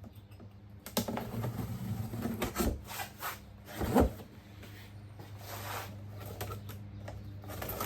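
Handling of the boxed dehumidifier: scattered knocks, rubs and clatter, with the loudest thump about four seconds in, over a steady low hum.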